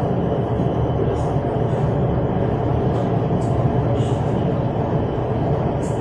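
Steady running rumble of a metro train moving between stations, heard from inside the carriage.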